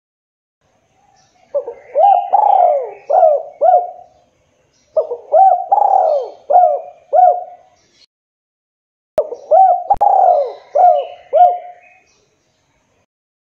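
Spotted dove (tekukur) cooing: three phrases of four or five coos each, about a second apart.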